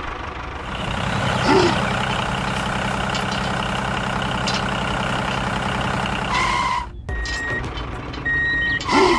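Truck engine sound running steadily, then after a brief break about seven seconds in, a reversing alarm giving two long high beeps.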